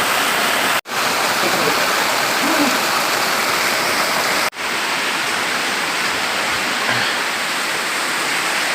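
Water flowing and rushing steadily, a clear spring stream running out of a cave, with the sound cutting out for an instant twice.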